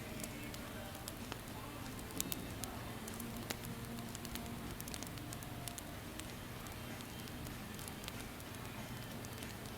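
Wood fire crackling: a steady hiss with scattered sharp pops and snaps, and a cluster of louder pops about two seconds in.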